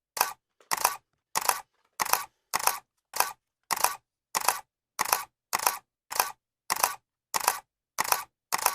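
Camera shutter clicking over and over at a steady pace, about one and a half to two clicks a second. Each click is a quick double snap.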